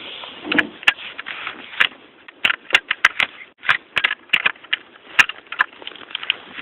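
Footsteps crunching through deep snow: a quick, irregular run of sharp crunches and crackles.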